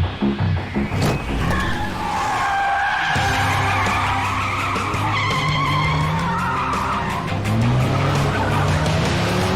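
Car tyres squealing for several seconds through a hard turn at speed, over the steady run of the engine.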